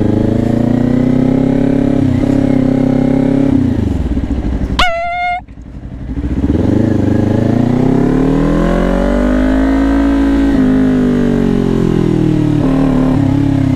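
Kawasaki Ninja 400's parallel-twin engine on the move: it runs steadily, then eases off about four seconds in. After a short high-pitched tone and a brief drop in level, the revs climb steadily, then fall away again near the end.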